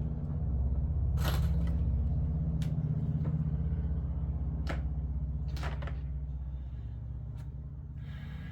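A steady low mechanical hum, with a few sharp clicks and knocks of parts and tools being handled.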